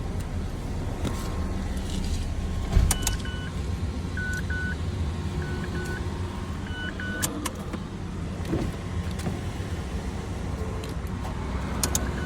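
A vehicle engine running with a steady low hum, while short electronic beeps sound in pairs for a few seconds about three seconds in, with a few sharp clicks in between.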